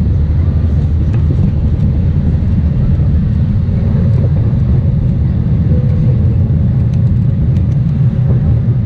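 Airport apron bus driving, a steady low rumble of engine and road.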